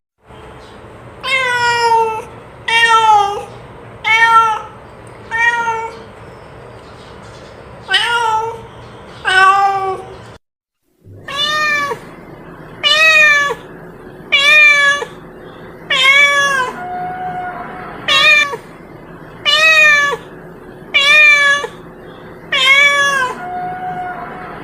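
Domestic cat meowing over and over, about one meow every second and a half, each call falling in pitch at the end, over a steady low hum. The meows break off for a moment of silence near the middle, then carry on.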